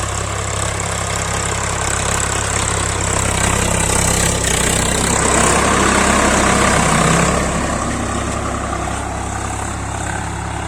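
Swaraj 855 FE tractor's diesel engine running steadily, swelling louder for a few seconds in the middle before easing back.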